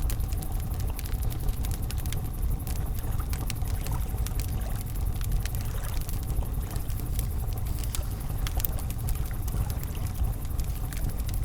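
Campfire crackling, with many small sharp pops and snaps at irregular moments, over a steady low rush of flowing river water.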